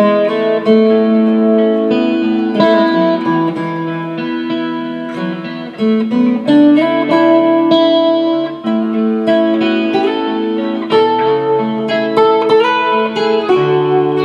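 Guitar playing in A major over a looped guitar phrase: layered, ringing chords and picked single notes.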